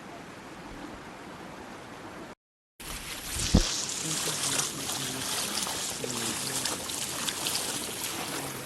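Floodwater rushing, a steady watery noise. It breaks off briefly about two and a half seconds in and comes back louder, with a single thump just after and faint voices in the background.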